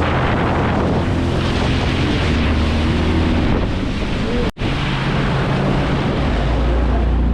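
Kawasaki JS550 stand-up jet ski's two-stroke engine running while riding on the water, with heavy wind buffeting the microphone and water rushing. The sound cuts out for an instant about halfway through.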